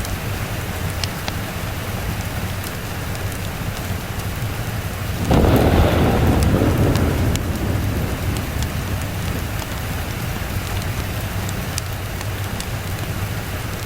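Steady heavy rain with a thunderclap that breaks in suddenly about five seconds in, then rumbles away over the next few seconds.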